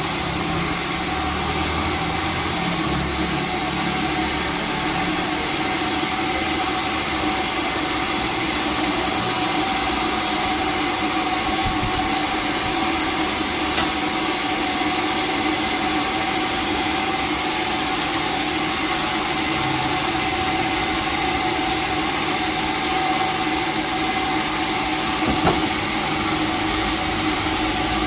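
Sawmill machinery running steadily, an even mechanical noise with a constant hum, with a single sharp knock near the end.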